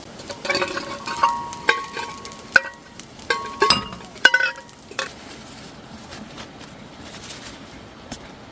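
Metal utensil clinking against metal cookware: about ten light strikes over the first five seconds, several leaving a short metallic ring, as in stirring or scraping in a pot.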